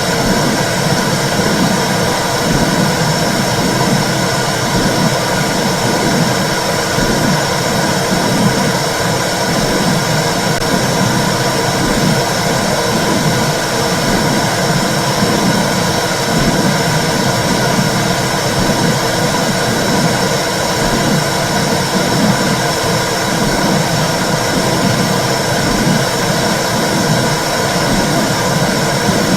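Womb sound for soothing babies: a steady whooshing rumble with a low pulse repeating about once a second.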